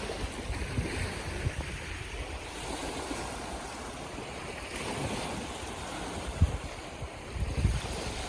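Sea waves washing in steadily. A few low thumps near the end, the loudest moments, sound like wind buffeting the microphone.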